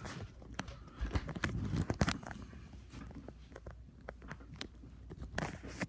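Irregular clicks and knocks, thickest about a second in and thinning out after, over a faint steady low hum.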